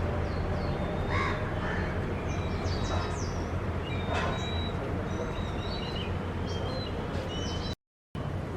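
Birds calling over a steady low background rumble: a few short harsh calls about one, three and four seconds in, among many short high chirps. The sound drops out briefly near the end.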